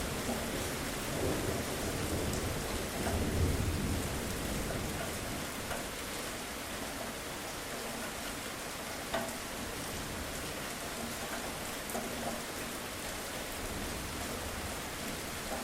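Steady rain falling, with a low rumble of thunder in the first few seconds that swells and then fades away, leaving the even hiss of rain with a few sharper drop ticks.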